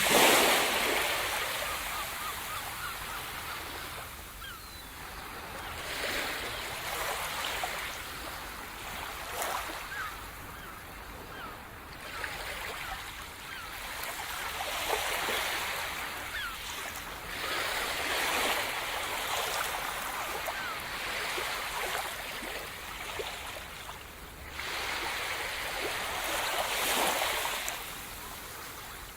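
Sea surf: waves breaking and washing up the shore one after another, each surge swelling and fading over a few seconds. The loudest break comes right at the start.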